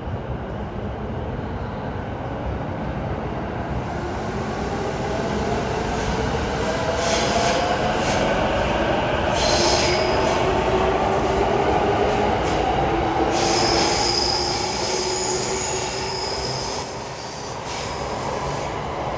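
Electric commuter train moving along the platform. Its motors whine in sliding tones, and it grows louder to a peak in the middle with a high wheel squeal, then eases off near the end.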